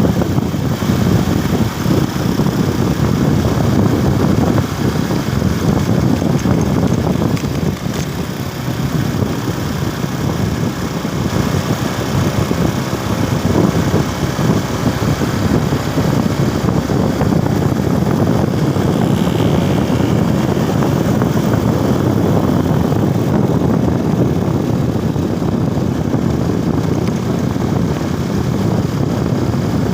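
Motorcycle running steadily on the road during a ride, the engine mixed with a steady rushing noise.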